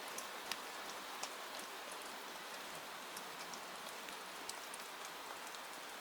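Steady rain falling, an even hiss dotted with scattered sharp ticks of drops.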